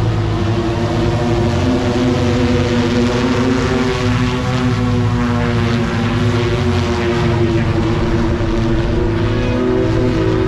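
Electric propellers of an Opener BlackFly vertical-takeoff aircraft running steadily as it flies low over the pad. The sound is a loud drone made of several steady tones that drift slightly in pitch.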